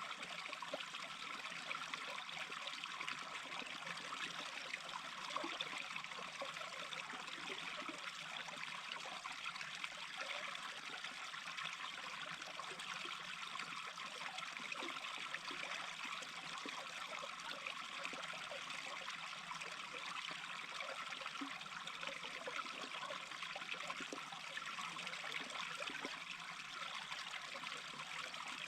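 Small stream babbling steadily over stones, a constant rushing with little gurgles and trickles.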